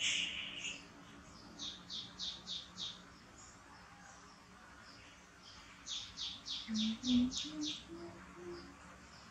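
Small bird chirping. A sharp high call comes first, then a quick run of about five evenly spaced high notes near two seconds in. A longer run of about seven notes, at roughly four a second, follows around six seconds in.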